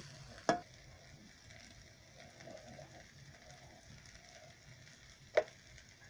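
Beef and masala frying in a pan with a faint, steady sizzle. A metal slotted spoon knocks sharply against the pan twice, about half a second in and again about five seconds in.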